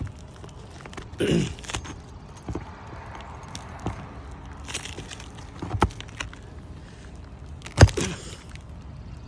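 Scattered knocks, clicks and scrapes from hand tools working on an asphalt shingle roof. One sharp knock about eight seconds in is the loudest.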